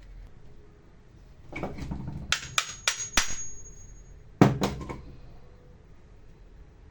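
A few sharp metallic taps and knocks in two clusters, the second starting with the loudest knock, with a brief high ringing after the first cluster: metal tools and parts knocked on a workbench.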